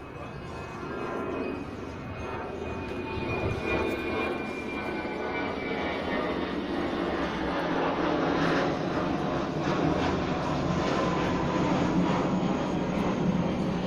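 An aircraft passing overhead, getting steadily louder, with its engine tone falling slightly in pitch.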